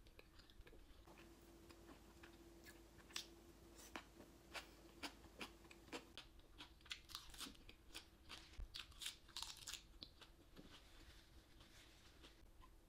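Close-up crunchy chewing of a mouthful of pickled vegetable side dish: a run of sharp crunches, about two to three a second, through the middle stretch.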